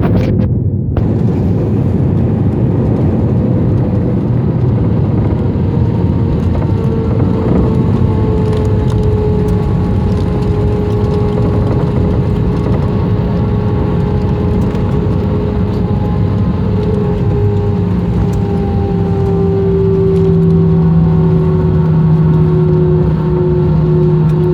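Jet airliner engines and airflow heard from inside the passenger cabin during the landing roll: a loud, steady rumble with an engine whine that slowly drops in pitch as the engines wind down. A lower drone grows stronger near the end.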